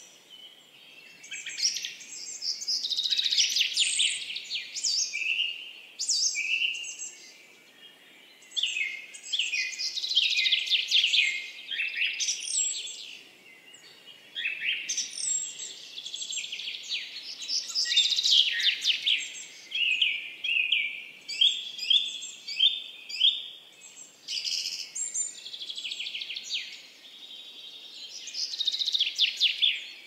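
Birds singing: phrase after phrase of fast, high trills, each one to three seconds long, with short pauses between.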